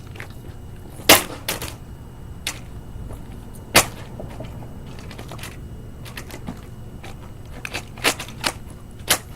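Irregular sharp knocks and snaps, about a dozen, loudest about a second in and again near four seconds: a toy dollhouse being smashed apart.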